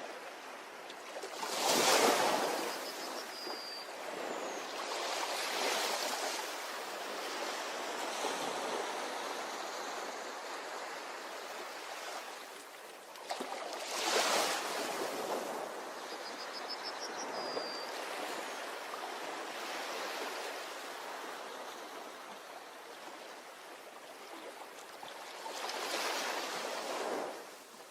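Ocean waves breaking on a beach: three surges about twelve seconds apart, a couple of seconds in, about halfway and near the end, each fading into a steady hiss of surf. A faint high chirp sounds twice.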